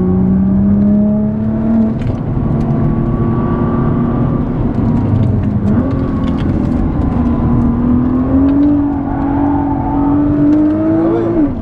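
Nissan GT-R R35's twin-turbo V6 heard from inside the cabin while being driven on track. The engine note climbs slowly, dips and changes about six seconds in, climbs again, then drops off near the end.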